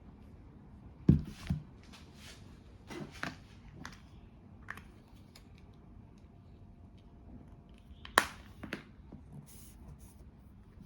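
Handling noises: a few scattered light knocks, clicks and rustles, the loudest knocks about a second in and about eight seconds in.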